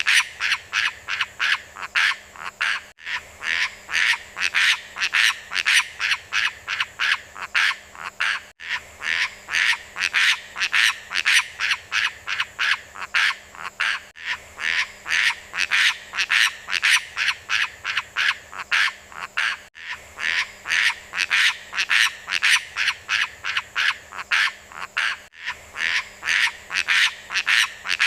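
Rapid, evenly repeated chirping animal calls, about three to four a second, that break off briefly every five or six seconds and start again, as if a short recording is looping.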